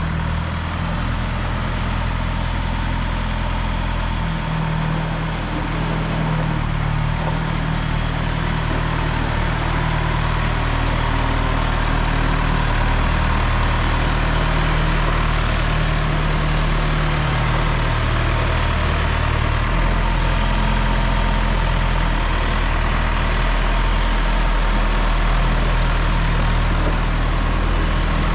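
1974 John Deere 2030 tractor engine running steadily while working, its engine note shifting a few times as speed or load changes.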